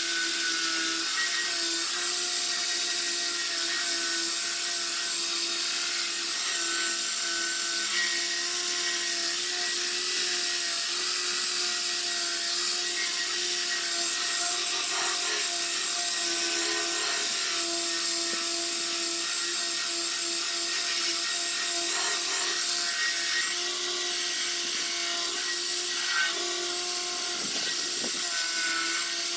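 Power sander running steadily and rubbing over a car body panel, sanding the surface down as preparation before paint.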